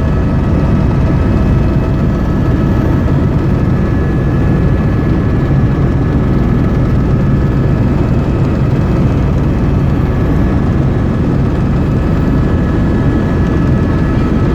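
Helicopter cabin noise during flight: the steady, loud drone of the rotor and turbine, with a low rumble and a few constant whining tones above it.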